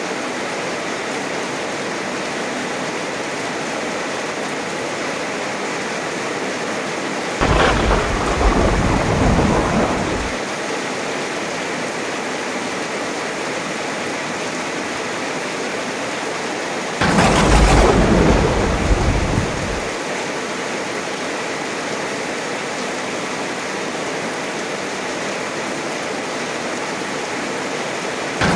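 Steady heavy rain with two claps of thunder, each starting suddenly and rumbling for about three seconds, the first about seven seconds in and the second about ten seconds later; a third clap begins right at the end.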